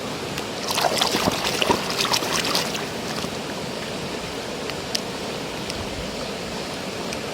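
Steady running water, with a couple of seconds of splashing and light clattering starting about a second in as toy cars are washed in it.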